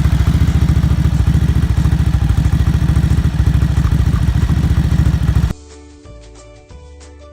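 Ducati Hypermotard 939's L-twin engine running steadily through its exhaust, a loud, even pulsing beat. It cuts off suddenly about five and a half seconds in and quiet music follows.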